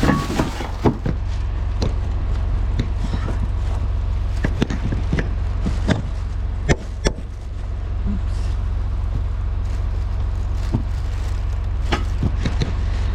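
A steady low rumble runs throughout, under scattered knocks, clicks and thumps of parts being handled and fitted. The sharpest knocks come about a second in and twice close together about seven seconds in.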